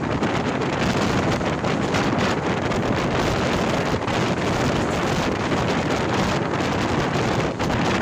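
A MEMU electric multiple-unit train running at speed: a steady loud rush of running noise, with wind buffeting the microphone.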